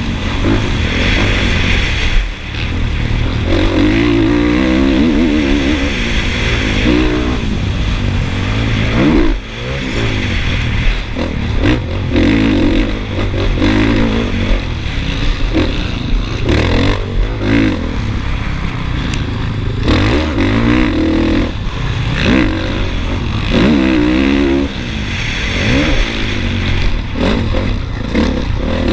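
Motocross bike engine racing, revving up hard and dropping back again and again as the rider accelerates, shifts and brakes around the track. Low wind rumble on the microphone runs underneath, with a few sharp knocks and clatter from the bike over the rough ground.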